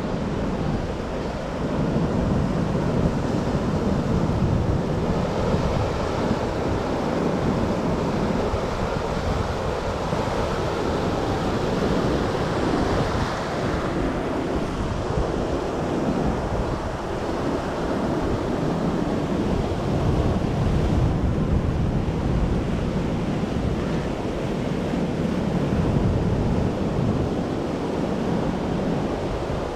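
Heavy storm surf crashing and surging continuously onto the beach, with wind buffeting the microphone.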